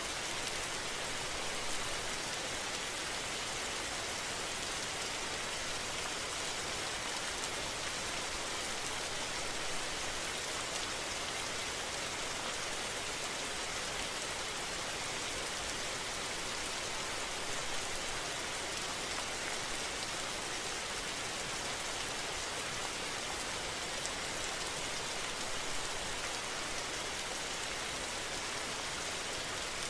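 Steady rain falling, an even hiss without letup.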